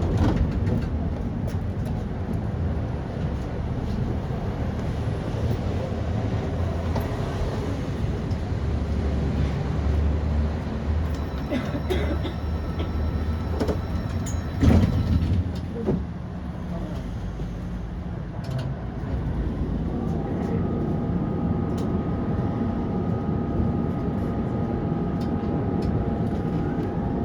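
Tram running on rails, heard from inside the car: a steady rumble of the wheels, with a few knocks over rail joints about halfway through. A steady whine comes in about two-thirds of the way in.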